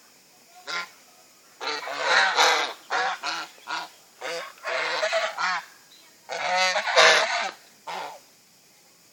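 Domestic fowl calling: a run of loud, harsh, repeated calls, some overlapping, in groups with short pauses between them.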